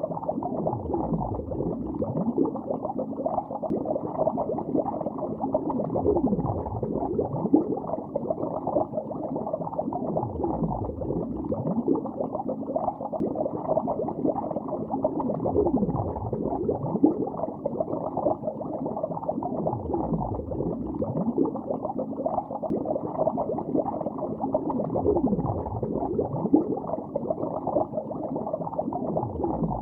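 Continuous underwater bubbling, as if heard through a hydrophone: a dense, muffled bubbling laced with many short gliding pitches from individual bubbles.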